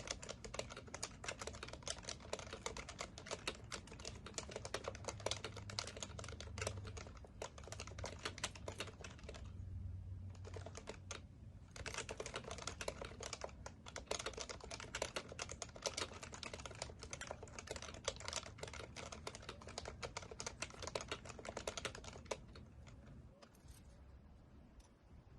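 Continuous typing on an HHKB Professional Classic keyboard with Topre electrostatic capacitive switches: a dense stream of keystrokes that breaks off for about two seconds partway through and thins out near the end.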